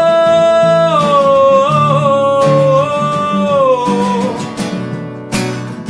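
Song: a long held wordless sung note over acoustic guitar, dipping once in pitch and falling away about four seconds in, then guitar strums near the end.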